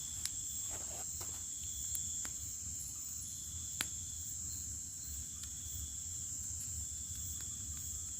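Crickets chirring in a steady high chorus, with a second, lower trill that comes and goes about once a second. A few sharp clicks are heard, the loudest about four seconds in.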